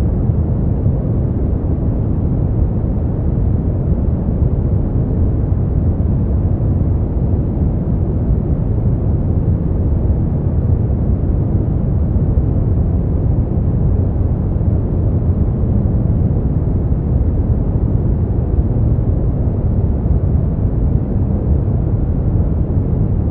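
Steady brown noise: a deep, even rumbling hiss, strongest in the bass and falling away in the treble, with no change or events.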